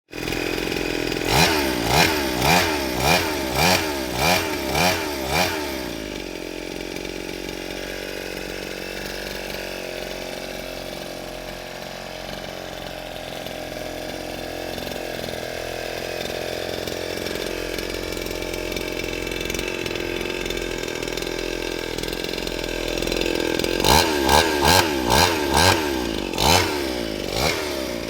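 Small engine revved in quick blips, about two a second, then idling steadily for a long stretch before another run of quick blips near the end.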